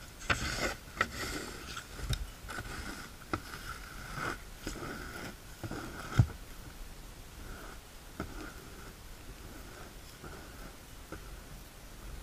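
Lightweight plastic snow shovel scraping and pushing snow in a run of short strokes, with a sharp knock about six seconds in; the strokes thin out and get fainter after about eight seconds.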